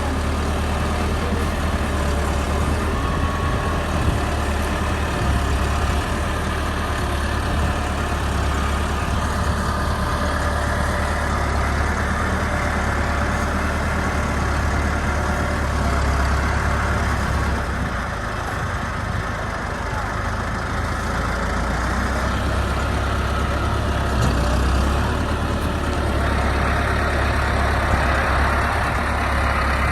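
Tractor diesel engine running steadily, a low heavy drone that eases slightly a little past halfway and then picks up again.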